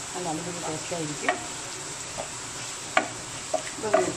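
Masala-coated chicken pieces sizzling in a pan with a steady hiss as they are stirred, and a spatula knocking sharply against the pan a few times.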